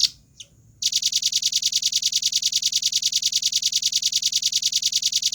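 Velvet-fronted nuthatch calling: two sharp high notes, then from about a second in a fast, even trill of rapid notes, about ten a second.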